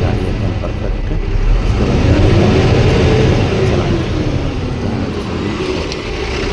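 Tata Signa BS4 truck's common-rail diesel engine running, rising in pitch once about two seconds in and falling back to idle.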